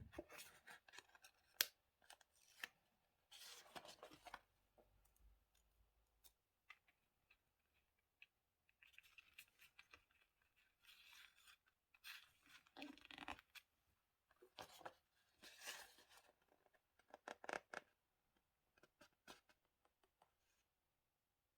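Faint paper-craft handling sounds: scissors cutting paper and paper rustling in short bursts, with scattered small clicks and taps, falling quiet about a second before the end.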